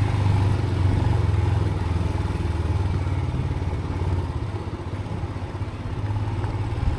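Motorcycle engine running steadily at low revs on a rough off-road track. Its low drone fades for a few seconds in the middle and comes back strongly near the end.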